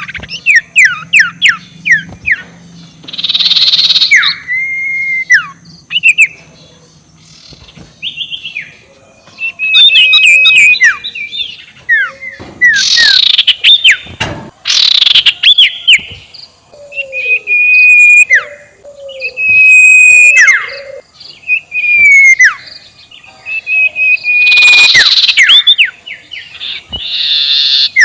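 Sirtu owl giving its cackling 'ngekek' call, played loud as a lure call: phrases of short notes falling in pitch, broken up by several harsh screeches.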